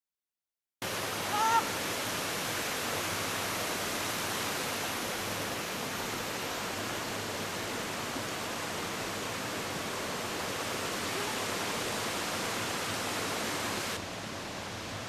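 Rushing water of a gorge river and waterfall, a steady even roar that cuts in just under a second in, with one short high call about a second and a half in; the level drops a little near the end.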